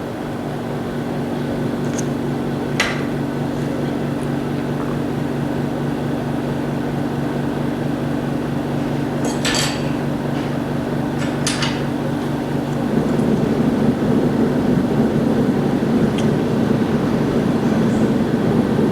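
A steady low machine hum that turns louder and rougher about thirteen seconds in, with a few light clicks.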